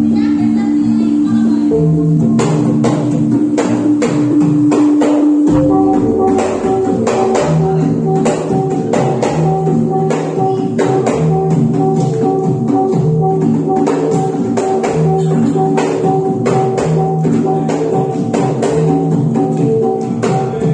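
Javanese gamelan music for jathilan dance: ringing pitched notes repeat over quick percussive strokes. About six seconds in, a long held low note drops out and a new repeating figure begins.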